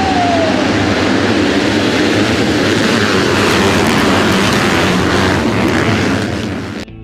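A pack of motocross bikes' engines running hard together in one loud, dense roar. It cuts off suddenly near the end.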